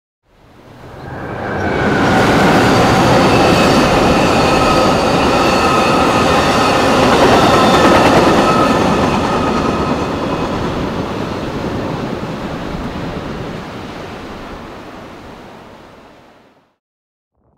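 A train passing: a loud, steady rush of wheels running on rails, with faint high squealing tones in the first half. It swells up over the first couple of seconds, holds, then slowly dies away.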